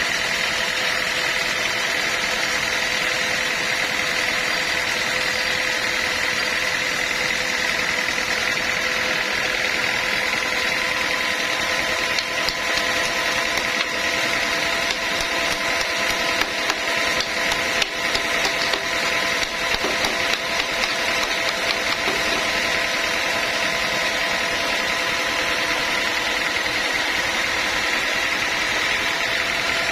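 Sawmill machinery running: a steady mechanical drone with several held tones, with uneven, louder rattles from about 12 to 22 seconds in.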